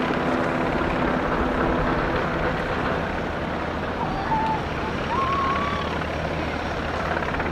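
UH-60J rescue helicopter in flight, its rotor and twin turboshaft engines running steadily.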